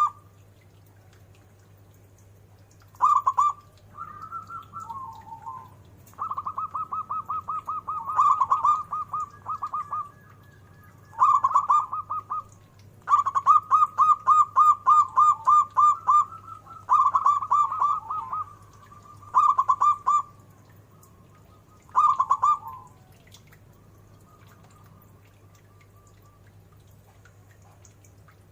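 Zebra dove (perkutut) cooing: repeated phrases of quick, rapidly pulsed notes, each lasting one to three seconds with short pauses between. The song thins out near the end, with only a faint note or two.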